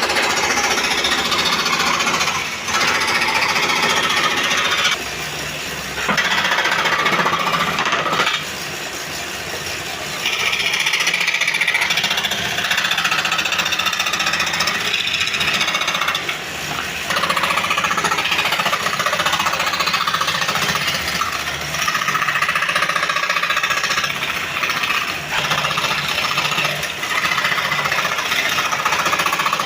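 A power tool working wood with a loud, rattling machine noise, in long passes broken by brief drops at about 5 seconds and again at about 8 to 10 seconds in, where the tool comes off the work.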